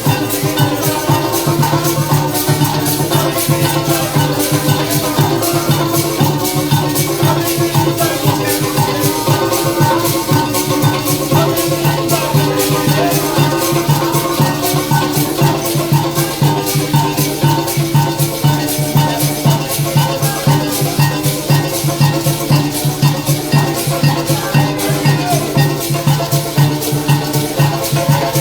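Live parang band music: pitched instruments playing over a fast, steady shaker rhythm from maracas.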